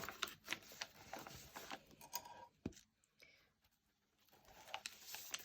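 Faint rustles and light clicks of the paper pages of a handmade junk journal being handled and turned, with a short near-silent pause midway.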